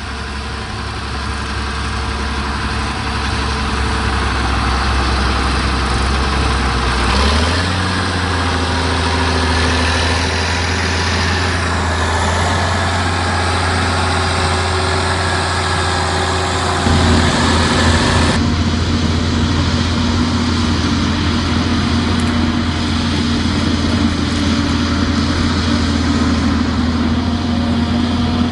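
Large engine running steadily at constant speed. Its pitch steps up abruptly about seven seconds in, and the sound changes again around seventeen seconds.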